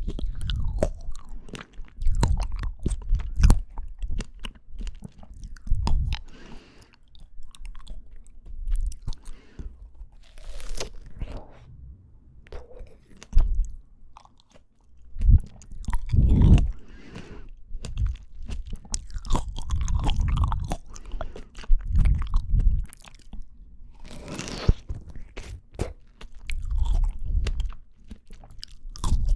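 Close-miked chewing and biting of fresh fruit (strawberries and apple), with irregular wet crunches and small clicks between softer chewing and a short lull about halfway through.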